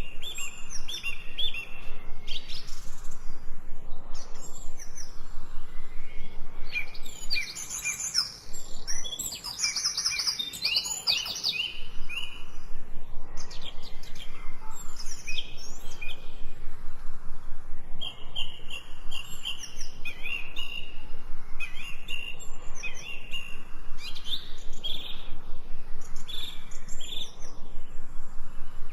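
Several songbirds chirping and trilling, with rapid runs of short high notes repeated throughout and a busy stretch of overlapping song about a third of the way in.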